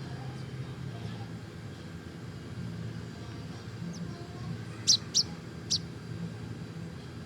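A bird gives three short, sharp chirps in quick succession about five seconds in, each dropping quickly in pitch, over a steady low hum.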